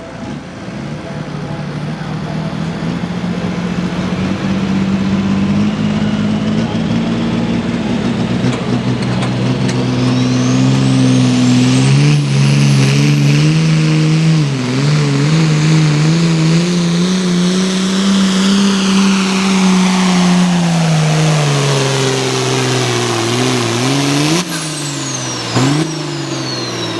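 Hot Farm pulling tractor's turbocharged diesel engine at full power down the track, its note growing louder and wavering as it loads, with a high turbo whistle climbing steeply in pitch and holding. Near the end the engine lets off and the whistle falls away.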